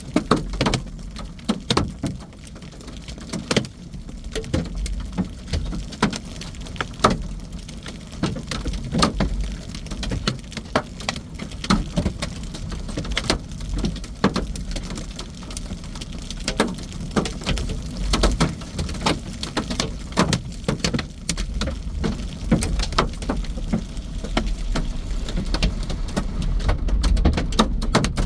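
Large hailstones, nearly baseball-sized, striking a vehicle's roof and windows, heard from inside the cabin as a dense, irregular barrage of hard knocks over a steady low storm rumble.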